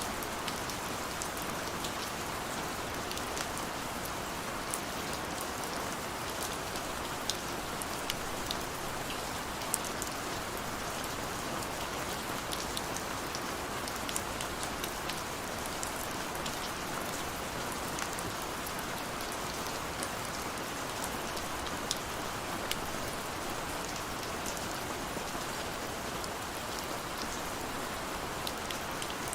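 Steady rain with scattered sharp drop ticks over an even hiss of falling water.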